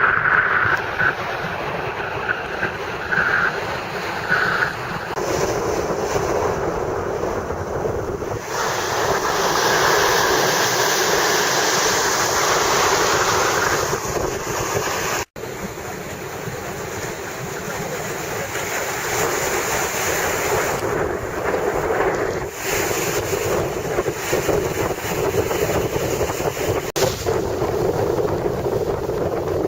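Strong wind buffeting the microphone over the rush of rough surf and water. The sound drops out for an instant about halfway through.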